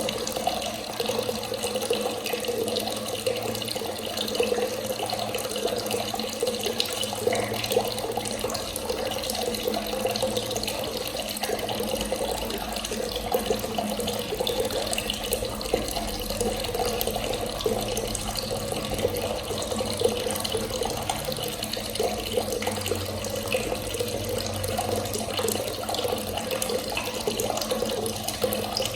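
Water running steadily from a tap, an unbroken splashing stream.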